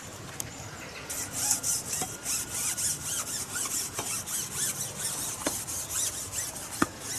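An insect rasping in fast, high-pitched pulses, several a second, starting about a second in. Small chirps and a few sharp clicks sound alongside it.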